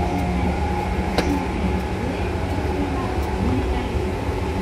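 Seibu 2000 series electric train running along the track: a steady rumble of wheels on rail with a faint steady hum, and one sharp click a little after a second in.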